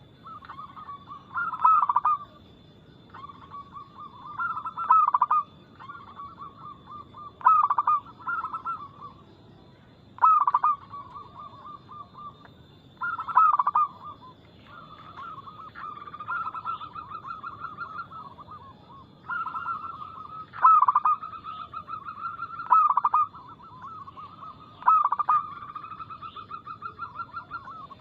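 Zebra dove (perkutut) cooing loudly and fast. Bursts of quick staccato coos come every two to three seconds, and in the middle they run together into longer rolling trills of rapid notes.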